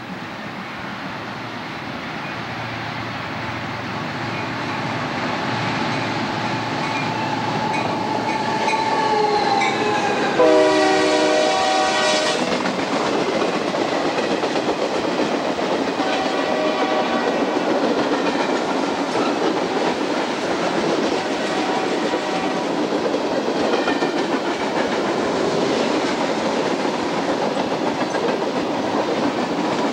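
Two EMD SD40-2 diesel locomotives approaching and growing steadily louder. A loud horn blast of about two seconds sounds roughly ten seconds in, then freight cars roll past with steady wheel clatter.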